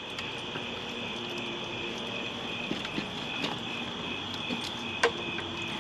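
Crickets chirping in a steady night chorus, with a few light clicks and one sharper knock about five seconds in.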